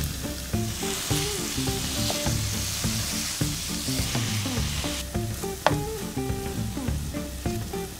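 Minced beef and chopped onions sizzling in hot oil in a frying pan while a wooden spatula stirs and breaks up the mince. The sizzle is strongest for the first five seconds, then eases, with one sharp click a little after five and a half seconds; soft background music plays underneath.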